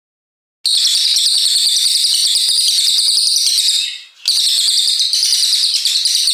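Cililin coklat songbird singing a long, loud burst of rapid, high-pitched notes run together into a fast trill. The song breaks off briefly about four seconds in, then carries on.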